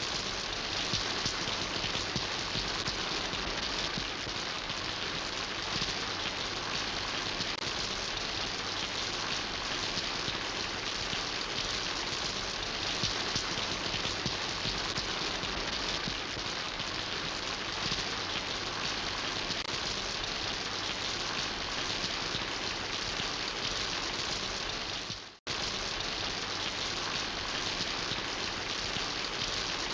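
Steady rain falling, an even continuous hiss, that breaks off for a split second near the end before carrying on unchanged.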